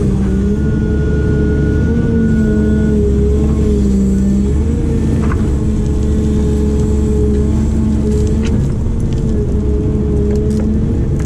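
Diesel engine of a heavy digging machine running steadily at working revs, its pitch wavering a little with load. A thin high whine is heard for the first few seconds, and there are a couple of short knocks later on.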